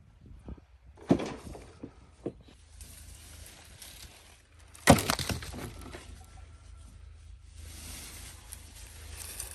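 Wood knocking and cracking: two sharp knocks, then a louder splintering crack about five seconds in, followed by a steady rustling hiss.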